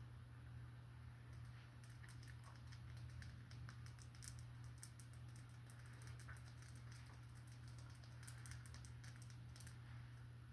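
Faint, irregular light clicks and taps in quick clusters over a steady low hum. This is ASMR handling and tapping of small hard objects.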